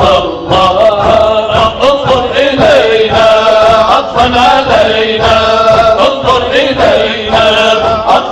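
Arabic religious song (inshad) chanted by male voices in a long melismatic line, with a steady beat underneath.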